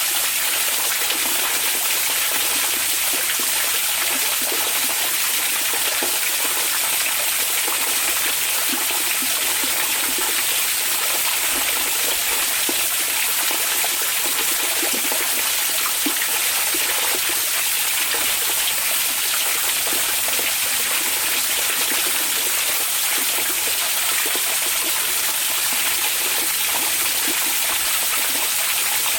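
Hot-spring (onsen) water running: a steady, unchanging rush of water.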